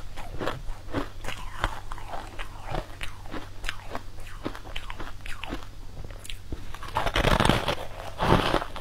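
Close-up crunching and chewing of frosty purple frozen blocks: many sharp, crackling crunches at an uneven pace. A louder, denser bite comes about seven seconds in and another near the end.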